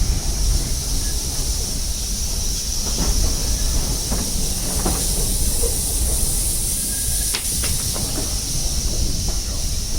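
Steam train: a steady hiss over a low rumble, with a few faint clicks.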